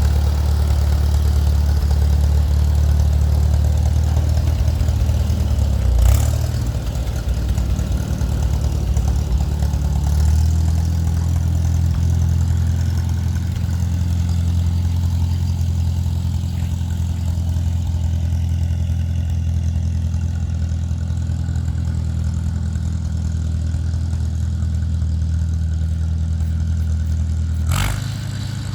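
Allis-Chalmers farm tractor engine running steadily at low speed. There is a sharp click about six seconds in and another near the end, and the engine note shifts slightly about ten seconds in.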